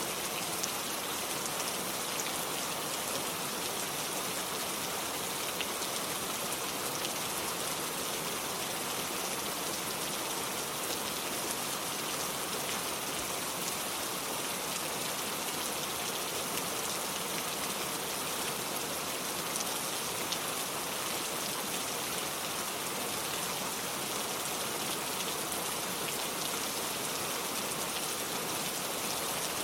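Steady rain falling, an even hiss of drops that holds level without let-up.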